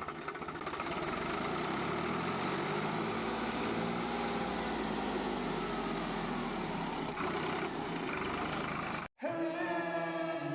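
A small motor running steadily, its pitch dipping and rising a little partway through; it cuts off abruptly near the end.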